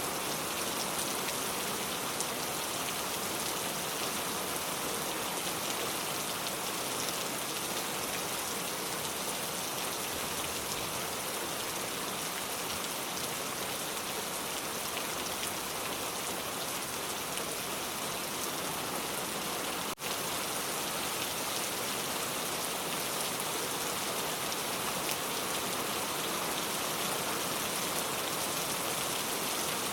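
Steady rain falling: an even hiss with scattered individual drops ticking, and a momentary dip in level about two-thirds of the way through.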